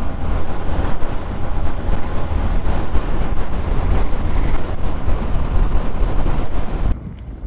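Heavy wind rush and buffeting on the microphone of a camera riding on a moving Hero Xpulse 200 motorcycle, with the bike's running noise underneath. It cuts off suddenly near the end.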